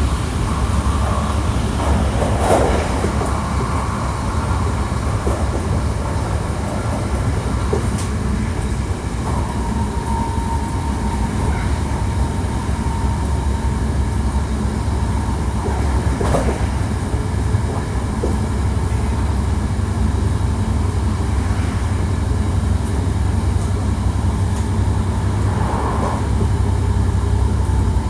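Hankyu 1300 series electric train running at speed, heard from inside the car: a steady low rumble of wheels on rail with a few brief knocks. About a third of the way in, a steady whine sets in and carries on.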